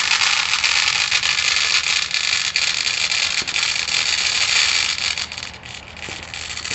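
Steady, shrill chorus of night insects, a dense high-pitched buzzing hiss that dips briefly about five and a half seconds in.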